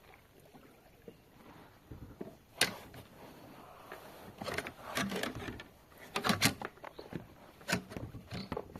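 Irregular knocks and clatter of gear being handled on a kayak, a few sharp hits at a time, after a couple of seconds of near-quiet background.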